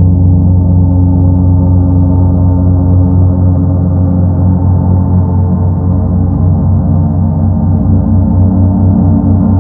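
Paiste Sedna planet gong sounding with a sustained, rumbling wash of many overlapping low tones. The tones hold steady at a loud level, with a slight pulsing in the lowest tones near the end.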